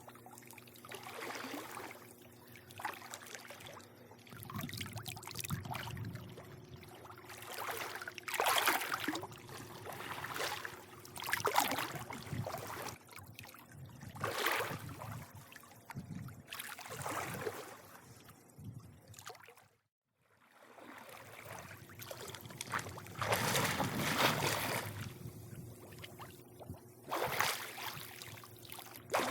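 Swimming-pool water lapping and sloshing in swells every two to three seconds over a steady low hum. The sound cuts out completely for under a second about two-thirds of the way through.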